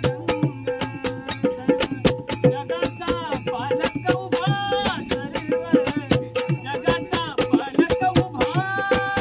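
Marathi bhajan music: fast, dense percussion strokes under a steady drone, with long held melodic notes about four seconds in and again near the end.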